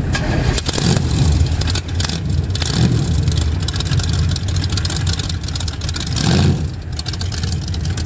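Loud engine of a Ford Popular drag-built hot rod running as the car creeps forward, with a short rev about six seconds in.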